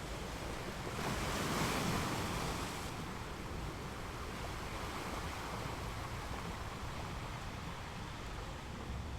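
Ocean waves washing on a beach: a wave breaks about a second in, its hiss loudest for a couple of seconds, then settles into a steady wash. A low rumble of wind on the microphone runs underneath.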